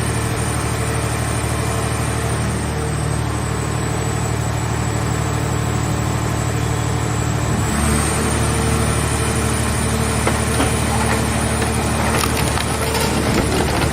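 Vehicle-shell baler running steadily, its engine and hydraulics under way. A little under eight seconds in, the running note shifts and grows slightly louder as the press takes load. Irregular cracking and crunching of the car body being crushed follows near the end.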